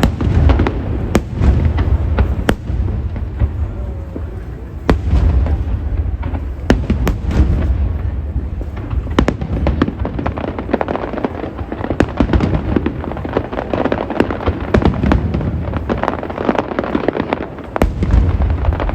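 Aerial fireworks going off continuously: deep booms of shells bursting overhead mixed with many sharp crackles and pops.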